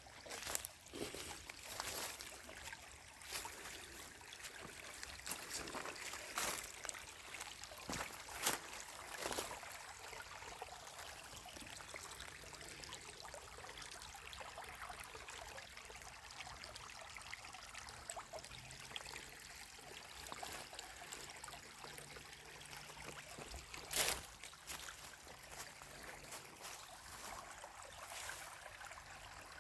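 Stream water trickling steadily, with scattered sharp snaps over the first ten seconds and one louder snap about 24 seconds in.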